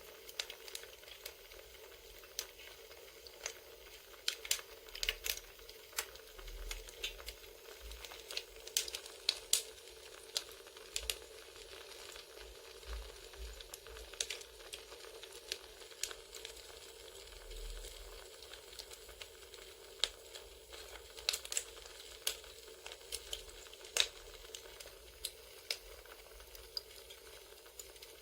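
Campfire crackling: irregular sharp pops and snaps over a steady soft hiss.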